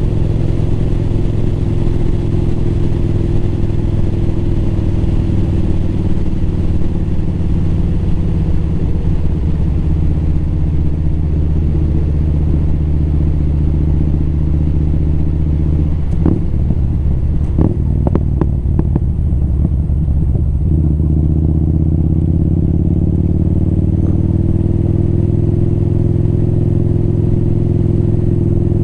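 Motorcycle engine running under way. Its note sinks through the middle as the bike slows, with a few sharp clicks a little past halfway, then rises again as it speeds back up.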